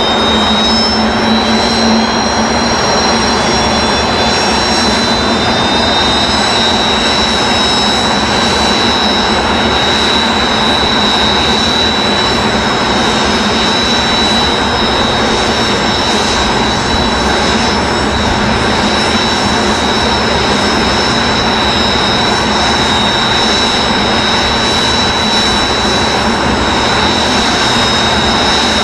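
Kawasaki T-4 jet trainers' turbofan engines running together after start: a steady rushing roar with several high-pitched whines, which edge up slightly in the first few seconds and then hold steady.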